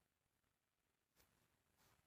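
Near silence: room tone, with two very faint soft swishes a little over a second in and near the end.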